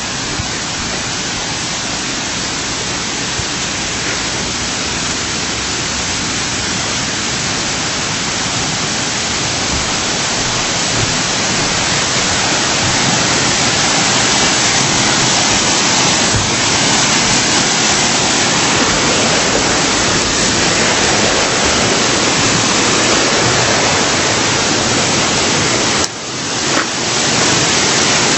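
Artificial waterfall pouring: a loud, steady rush of falling water that grows slowly louder, with a brief dip near the end.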